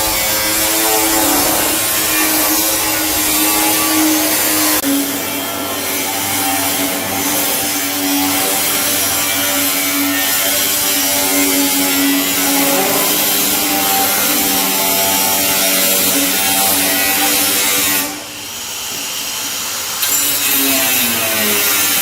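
A power tool running continuously with a steady whine. Its pitch steps down and up a few times, and it dips in level for about two seconds near the end.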